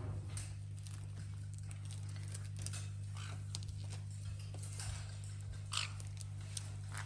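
Parrots chewing and scrabbling at toys: scattered small clicks, crunches and crinkles over a steady low hum.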